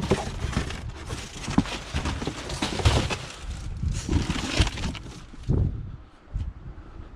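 Irregular knocks, scuffs and rustling, thinning out near the end.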